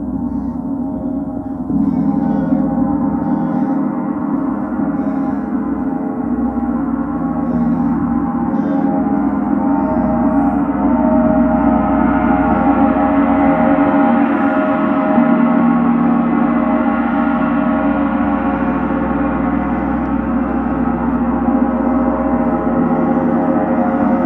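Gong being played continuously for a gong bath: a dense, sustained shimmering wash of overlapping ringing tones. A fresh, louder stroke lifts it about two seconds in, and it swells further through the middle.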